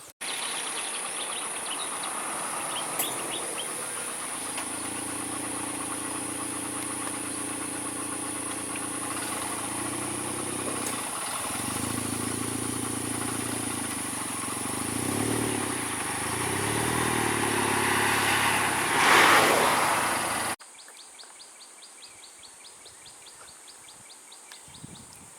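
A vehicle engine running, its pitch shifting up and down, with a steady high whine over it and a loud, sudden sound about nineteen seconds in. It then cuts to a much quieter outdoor background with regular high chirps.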